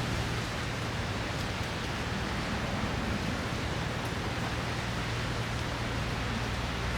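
Steady hiss of heavy rain, with a low rumble underneath.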